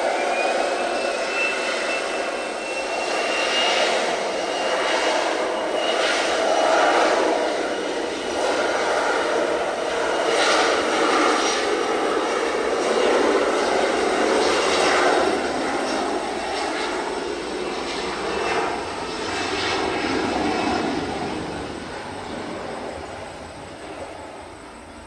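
Jet airliner's engines running loud as it passes at an airport, with a high whine that rises in pitch at the start and then holds. The noise fades away over the last few seconds.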